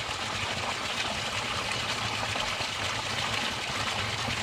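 River water running steadily, a constant even rush.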